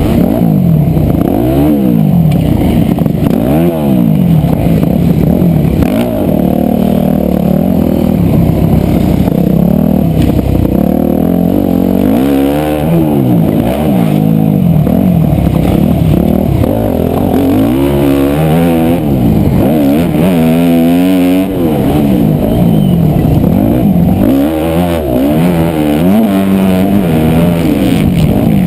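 Motocross dirt bike engine revving hard and easing off over and over as it is ridden around the track, its pitch rising and falling many times.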